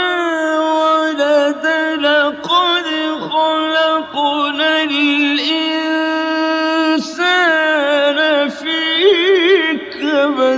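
A male reciter chanting Quranic verses in the slow, melodic mujawwad style. He holds long notes that slide and waver, with short breaks for breath and a quick ornamented trill near the end.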